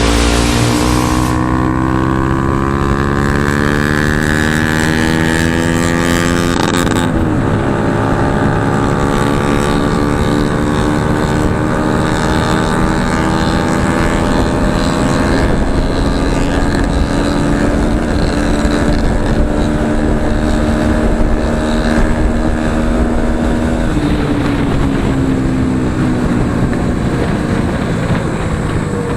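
Bajaj Pulsar NS 200's single-cylinder engine with a loud aftermarket Akrapovic exhaust, pulling under way: the pitch climbs, drops sharply at a gear change about seven seconds in, climbs slowly again through a long pull, then falls away a few seconds before the end as the throttle closes.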